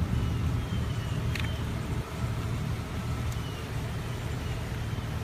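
Steady low rumble of a car running, with a single light click about a second and a half in and a few faint short high chirps.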